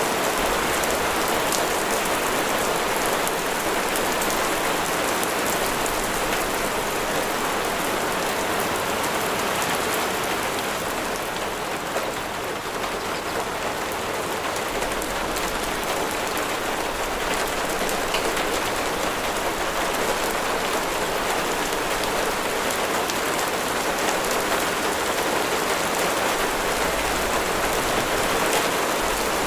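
Steady rain falling, a dense hiss of drops with fine individual taps; it eases slightly about a third of the way in, then picks back up.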